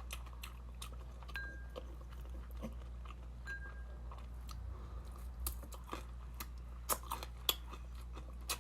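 A person chewing crunchy food close to the microphone: irregular crisp crunches, a few louder ones near the end, over a steady low hum.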